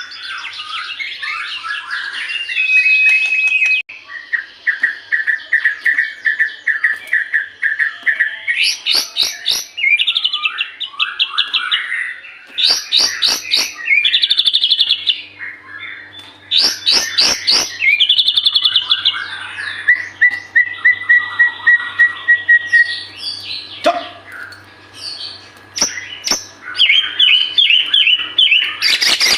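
White-rumped shama (murai batu) in full song: a long, varied run of rapid repeated-note trills, chattering runs and clear whistles, including one long held whistle about two-thirds of the way through.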